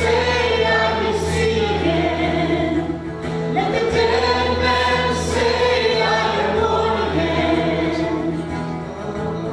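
A group of voices singing a worship song together over steady instrumental accompaniment with held low notes.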